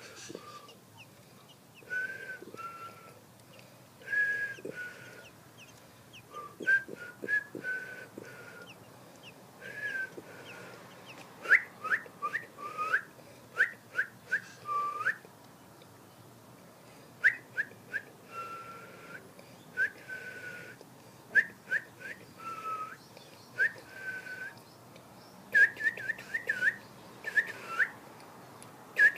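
A black bird calling while being fed: a scattered run of short whistled notes and quick sharp chirps, many sliding down in pitch, with soft clicks in between. Near the end comes a fast series of repeated notes.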